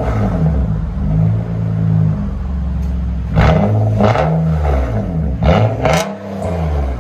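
Exhaust of a 2016 Nissan Altima 2.5L four-cylinder, with its resonator and rear muffler deleted, being revved hard. One rev is held for a couple of seconds, then a series of quick blips rise and fall.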